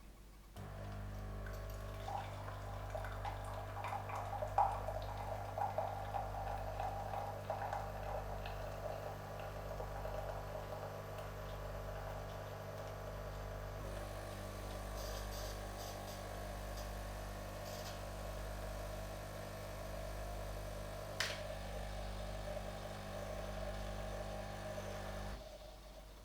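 Bosch Tassimo T20 pod machine brewing: its pump hums steadily while hot chocolate streams into a glass. It starts just after the beginning and stops shortly before the end, with one sharp click near the end.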